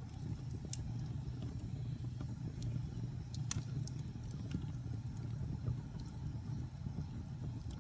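Wood fire burning in a fireplace: a steady low rumble of flames with scattered crackles and pops, the sharpest about halfway through.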